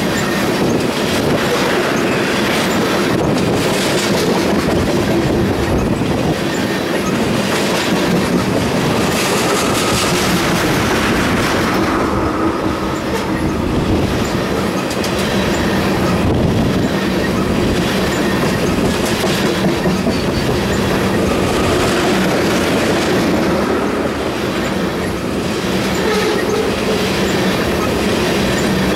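Freight train tank cars rolling past close by: a steady, loud rumble of steel wheels on rail, with a clickety-clack as the wheels cross rail joints.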